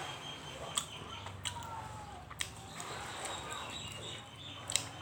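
Eating sounds: a few sharp mouth clicks and smacks, about four in all, over faint bird chirps in the background.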